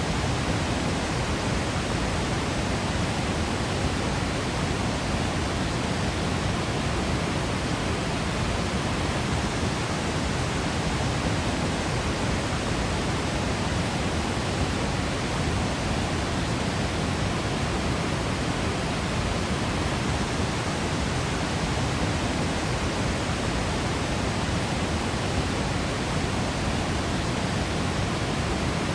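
Steady, unbroken rush of a waterfall crashing down, a dense even roar with no breaks or changes.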